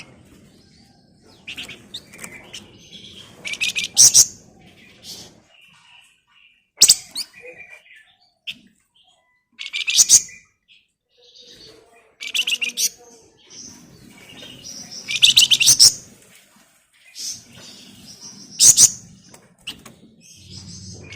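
A flamboyan songbird singing in fast, dense bursts of high, rattling trills, about one burst every three seconds, with softer chirps in between.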